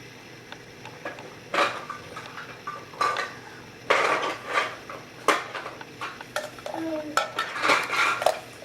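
Objects being handled on a hard surface: a series of separate clinks and clatters, the sound of dishes and cutlery.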